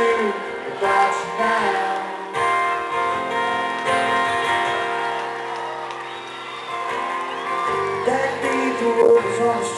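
Live band music: strummed acoustic guitar with singing.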